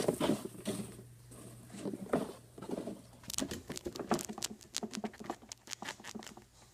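Rapid light tapping and clicking of small toys being handled, getting busier about three seconds in.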